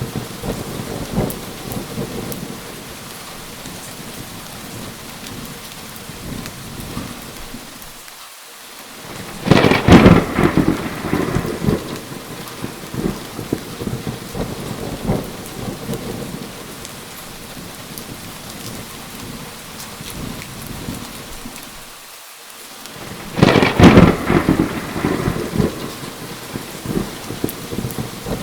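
Steady rain with rolling thunder, two loud peals, about a third of the way in and again near the end, each rumbling on for a few seconds.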